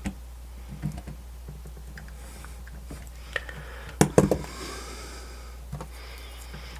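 Scattered small clicks and taps of radio parts being handled and pushed together during reassembly, with a sharper cluster of clicks and a short scrape about four seconds in, over a low steady hum.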